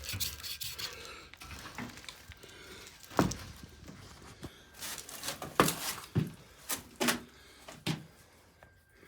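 Objects being handled and shifted around in a cluttered shed: rubbing and scraping, with about half a dozen sharp knocks of things, likely wooden, bumping together over the second half.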